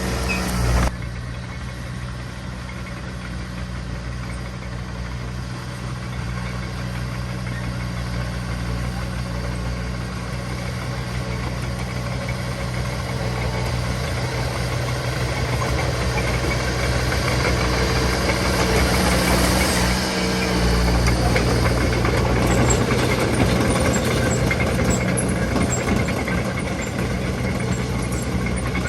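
Heavy construction machinery's diesel engine running steadily, growing gradually louder over the first twenty seconds or so.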